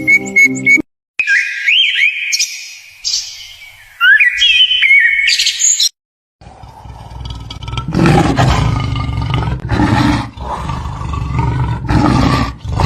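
Bird calls, quick chirps that sweep up and down in pitch, for about five seconds, then after a brief gap a big cat roaring in repeated loud surges.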